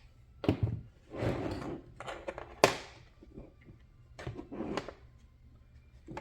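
Small plastic and metal RC car parts being handled during disassembly: a run of short scrapes, clicks and knocks, the sharpest click about two and a half seconds in.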